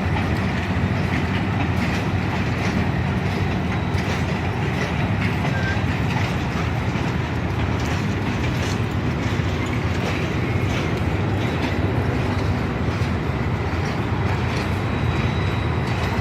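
Passenger train running on the rails: a steady low rumble with scattered clicks of the wheels over the track.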